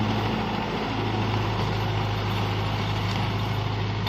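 Mahindra Yuvo Tech 575 DI tractor's diesel engine running steadily with an even, unchanging drone.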